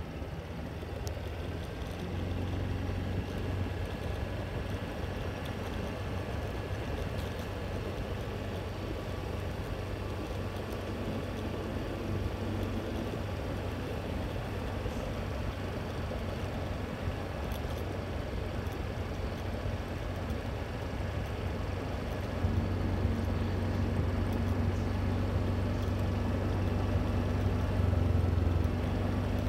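A motor vehicle running steadily on the move, a continuous low engine and road rumble that grows louder about two-thirds of the way through, with a faint engine tone rising slightly near the end.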